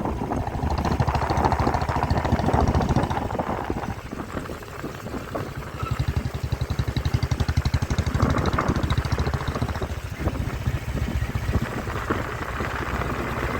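Motorcycle engine running while riding, with wind noise. It eases off about four seconds in and picks up again a couple of seconds later.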